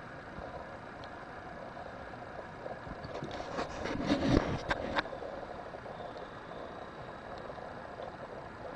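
A steady low hum, with a louder rush and a few sharp clicks about four seconds in.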